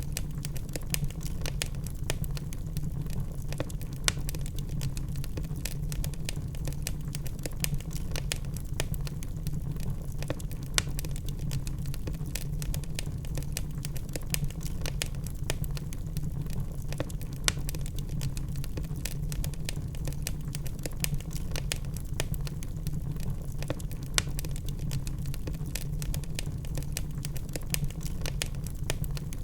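Wood fire burning in a fireplace: a steady low rumble of the flames with dense, irregular crackling and occasional louder pops from the burning logs.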